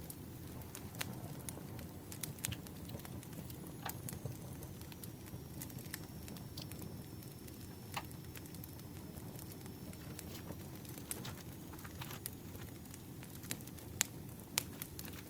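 Campfire crackling: irregular pops and snaps over a steady low rumble, with a faint thin high whistle through the middle.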